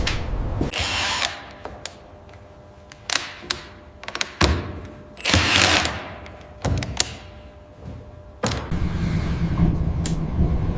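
Renovation tool sounds: a run of sharp clicks and knocks with two short hissing bursts, then a low steady power-tool hum that starts near the end.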